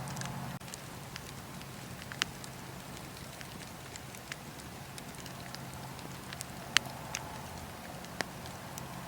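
Wood fire in a fireplace crackling: a steady soft hiss broken by scattered sharp pops, the loudest about two-thirds of the way through.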